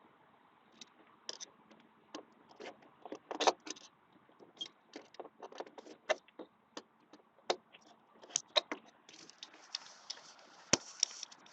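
Irregular clicks, clinks and small knocks of hand tools working at hose fittings, with a couple of sharper knocks and a faint steady hiss coming in near the end.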